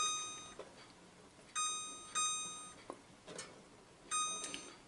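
LG Smart Inverter microwave's keypad beeping four times as the minus button is pressed, stepping the power level down to 30%. Each beep is a short, fading tone.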